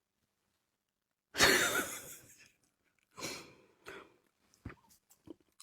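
Close-miked mouth sounds of a person eating grilled sea snail: a loud breathy rush of air about a second in, two shorter ones after it, then small wet mouth clicks near the end.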